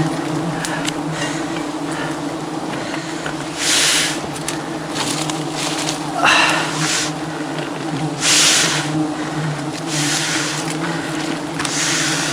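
Swarm of wild honey bees buzzing around their hive, a steady drone. Short hissy swishes come about every two seconds.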